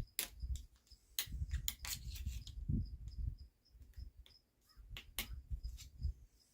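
Clicks, knocks and rattling of small parts and a hand tool being handled and worked, with a faint high chirp repeating about three times a second behind them.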